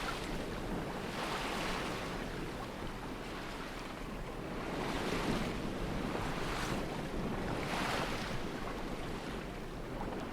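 Sea water washing and splashing against a small sailboat's hull, surging every second or two, with wind buffeting the microphone.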